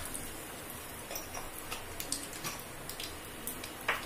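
Chana dal and urad dal frying in a little oil in a kadai: a soft, steady sizzle with scattered small ticks and pops, and a sharper click near the end.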